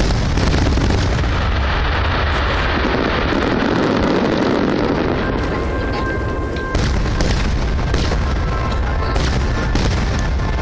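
A dense barrage of aerial firework shells bursting overhead, one boom running into the next over a continuous low rumble, getting louder about two-thirds of the way through.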